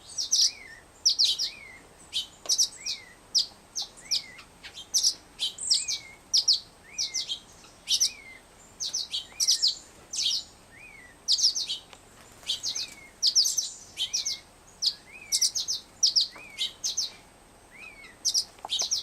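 Fledgling songbirds giving begging calls for food: clusters of quick, high chirps repeated about once a second, each cluster joined by a short rising-then-falling note.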